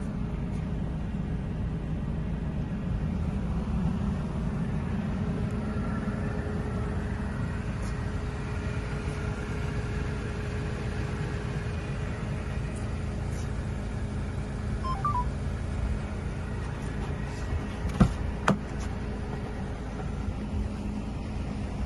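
Mercedes-Benz CLC200 Kompressor's supercharged four-cylinder engine idling steadily, with two sharp clicks half a second apart near the end.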